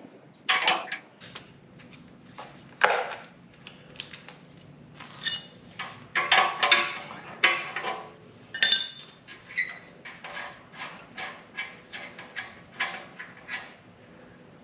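Irregular metallic clinks, clicks and knocks from hand tools and metal motorcycle exhaust parts being handled, busiest about halfway through, with one brief ringing clink.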